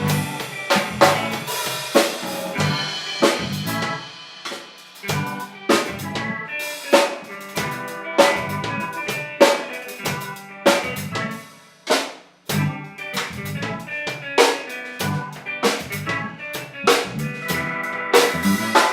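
Drum kit solo, with snare, rimshot and bass drum strikes in fast, irregular fills and a brief break about twelve seconds in.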